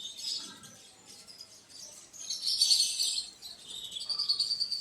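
Small birds chirping, loudest in a cluster of chirps about two seconds in. Near the end a steady, high insect-like trill starts up.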